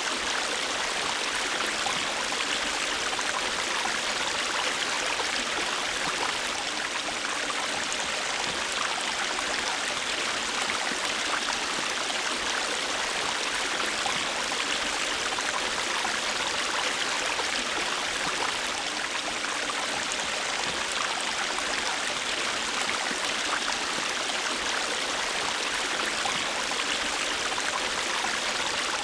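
River water flowing over rocks: a steady rushing and babbling of a stream with fine gurgling detail, unchanging throughout.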